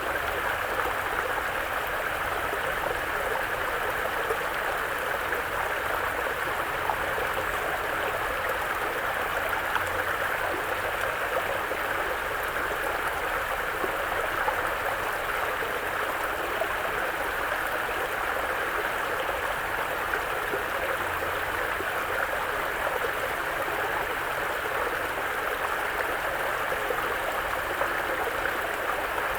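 Mountain brook flowing steadily, an even rush and babble of water over rocks.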